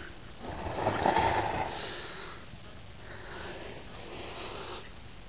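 A person breathing close to the microphone: two noisy breaths, the first louder, from about half a second in, the second softer, from about three seconds in.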